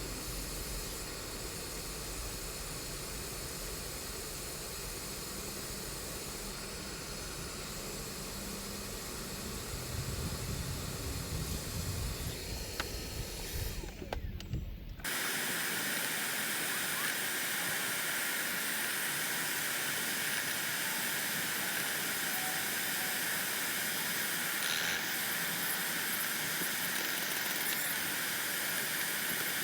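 Pesticide spray hissing steadily at a wasp nest. About halfway through, a low, rumbling hiss gives way abruptly to a louder, brighter, steady spray hiss.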